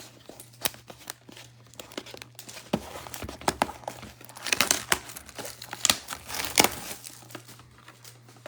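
Trading card pack wrappers and box packaging being torn open and handled, with irregular crinkling and tearing rustles that are busiest about halfway through.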